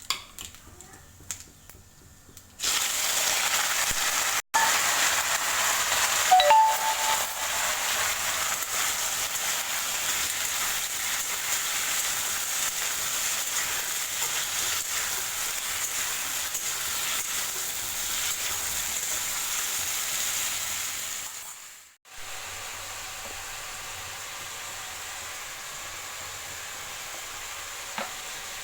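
Food sizzling in hot oil in a pan, a loud steady hiss that starts suddenly a few seconds in, with a few light metal clinks of stirring early on; after a brief cut the sizzling carries on more quietly.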